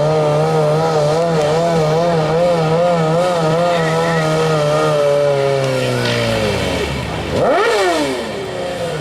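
Modified lawn tractor's engine running at high revs under load as it pulls the weight sled, its pitch wobbling about twice a second as it strains. About six seconds in the revs drop away as the pull ends, followed by one quick blip up and back down.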